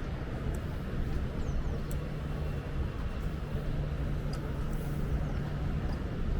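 Steady low rumble of city background noise, like traffic, with a low hum and a few faint high chirps.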